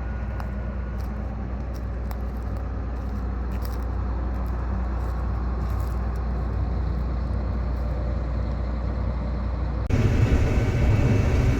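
A vehicle engine running at a steady drone, then an abrupt change about ten seconds in to a louder, rougher engine sound.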